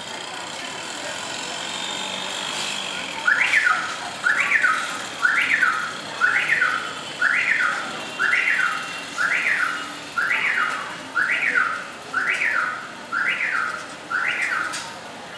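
A bird calling a series of about twelve identical loud notes, about one a second, each sweeping sharply up and falling back. The series starts a few seconds in.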